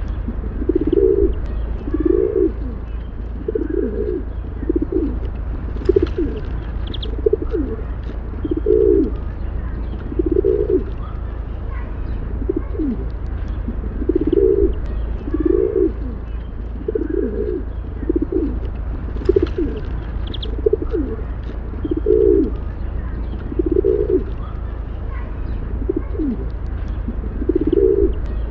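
Pigeons cooing, a low call repeated every one to two seconds, with faint chirps from other birds and a steady low hum underneath.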